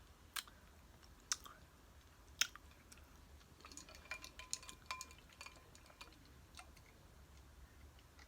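Faint chewing of nachos, with a few sharp clicks and a run of light clinks of dishes about halfway through.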